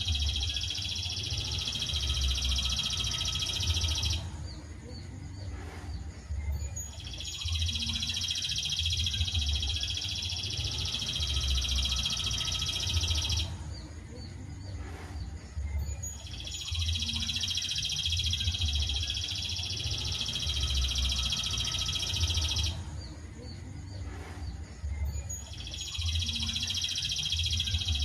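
A continuous, dense, high-pitched trilling bird song that lasts about six seconds, breaks off briefly, and starts again, three times in a regular cycle. This is a looped masteran tutor recording of songbird song.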